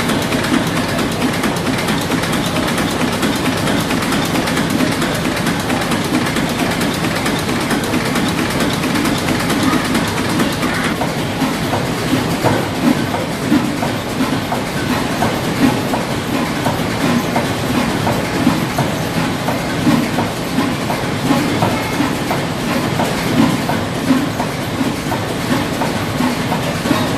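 Stationary engines running in an engine house: a steady rumble with a rapid, irregular clatter of small knocks.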